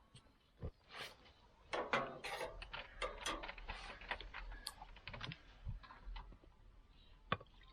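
Irregular clicks, taps and knocks with rustling in between, the sound of things being handled, with the loudest knocks about two seconds in and one sharp click near the end.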